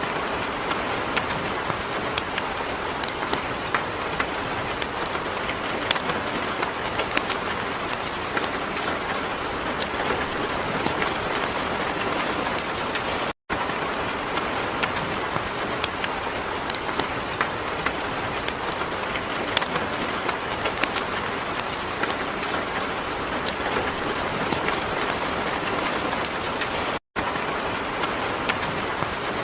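Heavy rain falling steadily, with many individual drops ticking sharply on a hard surface. The sound cuts out for an instant twice.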